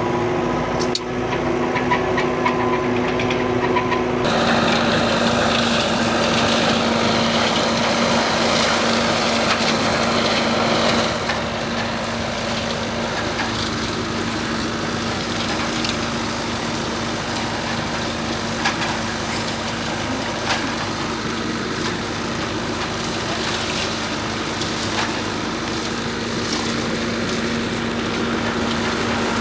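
Tractor engine running at a steady speed. About four seconds in its sound turns brighter and noisier, and it eases back slightly about eleven seconds in.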